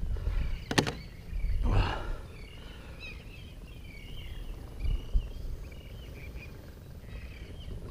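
Small birds chirping over and over in short wavering calls, with a low rumble of wind on the microphone. A sharp click comes just under a second in.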